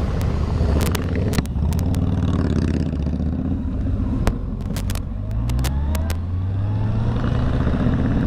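Motorcycle engine running as the bike pulls away, its pitch rising steadily through the second half as it accelerates. Scattered sharp clicks and knocks.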